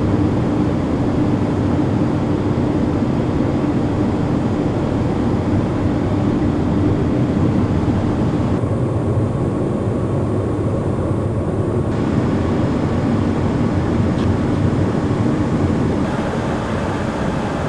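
Steady in-flight noise of a Beechcraft Premier 1 business jet: a constant rush of airflow and engine drone with a steady hum. The hiss dulls for a few seconds midway, then returns.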